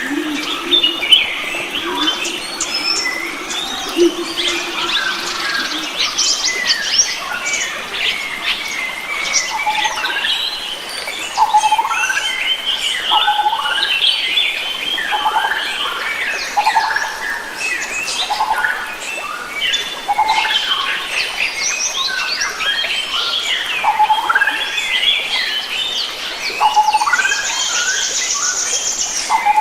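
Mixed chorus of wild forest birds, many short chirps, whistles and squawks overlapping. A low steady drone runs under the first six seconds, and a high rapid trill comes in near the end.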